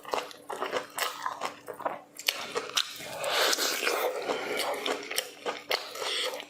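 Close-up chewing and biting of food: a quick run of short mouth clicks, thickening into denser crunching from about three to six seconds in.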